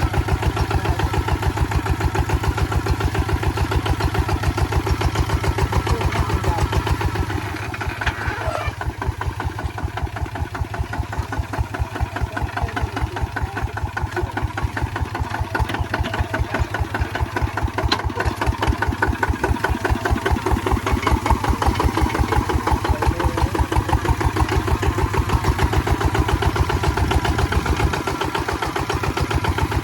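Kubota ZT155 single-cylinder diesel engine running steadily with a rapid, even beat while plowing. It eases off briefly about seven seconds in and again near the end.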